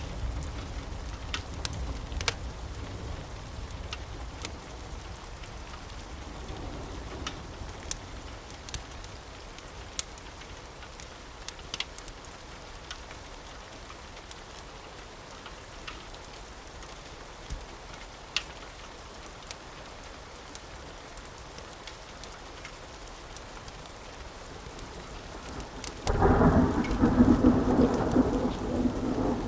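Steady rain with scattered sharp crackles and a low rumble of thunder dying away at first. Near the end a loud roll of thunder breaks in suddenly and keeps rumbling.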